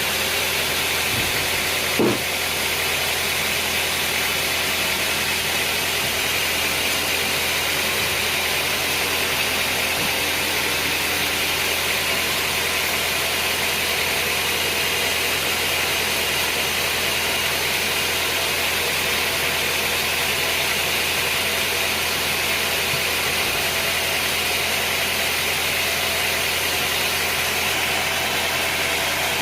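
Sawmill machinery running steadily, an even mechanical drone with a single knock about two seconds in.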